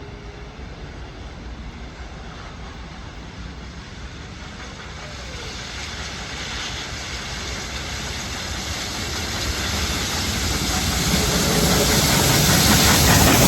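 A train approaching, its rumble and hiss growing steadily louder throughout.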